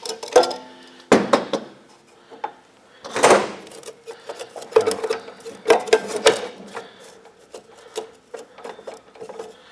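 Metal parts of an abrasive cutoff saw being handled during a toolless wheel change: a scattering of sharp clanks and knocks, with a longer scrape a little after three seconds in.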